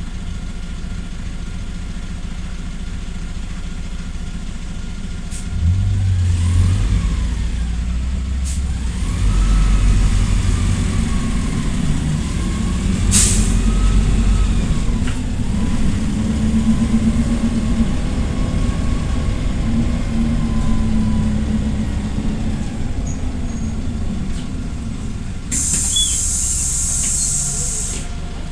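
PAZ Vector Next city bus engine running steadily, then about six seconds in pulling away under load, its pitch rising and falling through the gears. A short sharp noise comes midway, and a hiss of air near the end is typical of the bus's air brakes.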